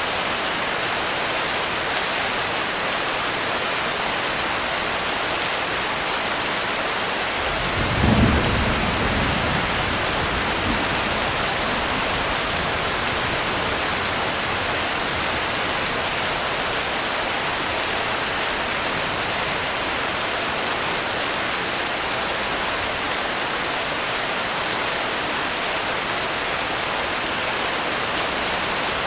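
Steady rainfall with a roll of thunder about a quarter of the way in: a low rumble that swells quickly and fades over a few seconds.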